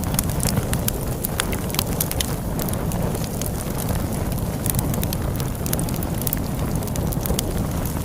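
Log fire crackling, with frequent sharp irregular pops and snaps, over a steady low rumble of storm wind.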